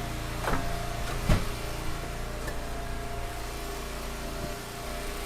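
Log splitter's engine running steadily, with two sharp knocks of wood in the first second or so, the second the louder.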